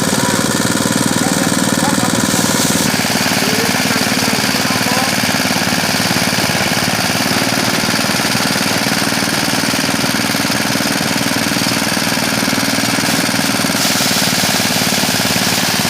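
Mini rice threshing machine running steadily under its small engine, a constant loud mechanical drone with a fast, even pulse.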